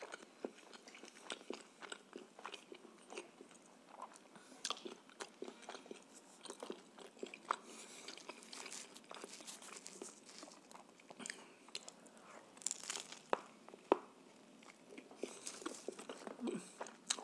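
Close-up chewing of a mouthful of shawarma: irregular small wet clicks and soft crunches of the mouth.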